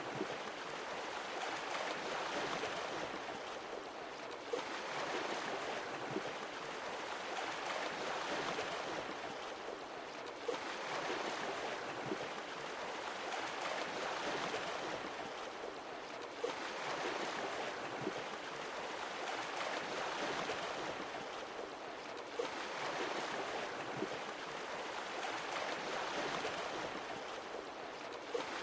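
Sea waves breaking and washing in, a steady rush that swells and ebbs, with a new wave arriving about every six seconds.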